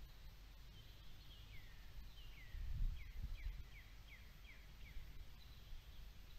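A bird singing faintly: a few longer down-slurred whistles, then a quicker run of about seven short descending notes, roughly three a second, over a low rumble.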